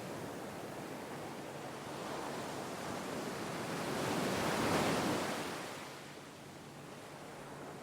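Gentle sea waves washing on a shore: a steady hiss of surf that swells as one wave breaks a little past halfway, then ebbs away.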